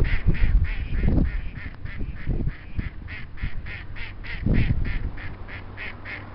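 Ducks quacking in a fast, even series of short calls, about four a second, with bursts of low rumble on the microphone near the start and about halfway through.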